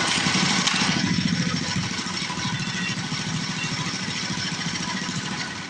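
Mini bike's small engine running at idle with a rapid, even firing beat, catching at once at the start and winding down at the end.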